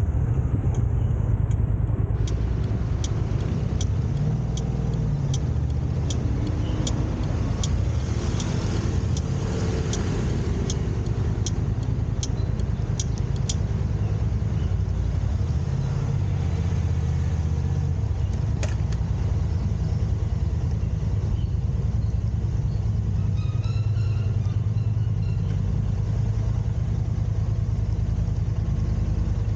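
Steady low road and engine rumble of a car being driven, heard from inside the car. For about ten seconds, starting a couple of seconds in, a regular sharp ticking sounds at about two ticks a second.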